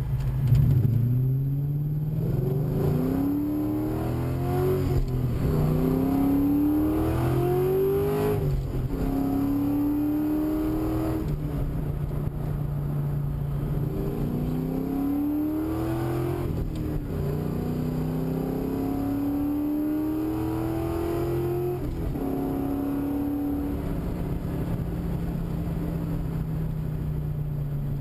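V8 exhaust of a 1999 Ford Mustang SVT Cobra (4.6-litre DOHC) pulling through the gears twice. In each run the pitch climbs three or four times, dropping back at each upshift, between stretches of steady running.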